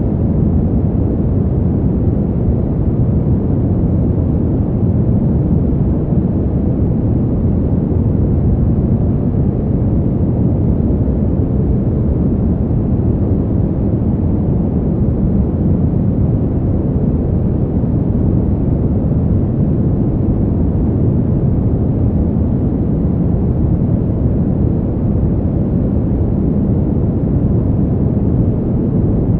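Steady, deep rushing noise of winter wind, a low rumble with no gusts or breaks, made as a sleep sound.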